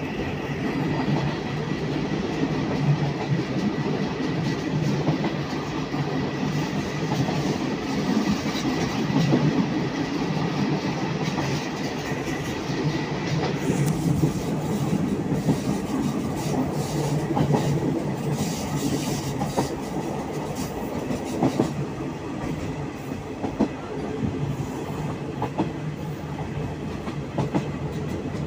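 A moving passenger train heard from a carriage window: a steady rumble of wheels on rail, with scattered clicks of rail joints in the second half. A faint steady whine stops about halfway.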